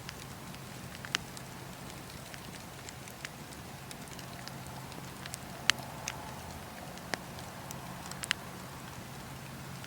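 Wood fire in a fireplace crackling over a steady low hiss, with scattered sharp pops; the loudest come a little over a second in, near the middle and twice near the end.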